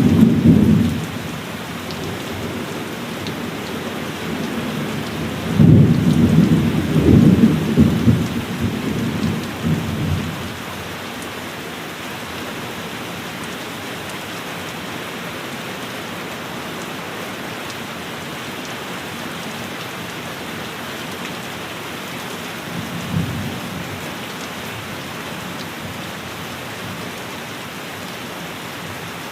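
Steady heavy rain falling. Thunder rumbles over it: a short one right at the start, a longer rolling one from about six to ten seconds in, and a brief low rumble near the end.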